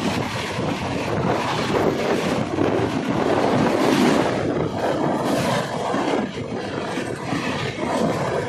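A passing train: a loud, rushing rumble that swells and dips without a break.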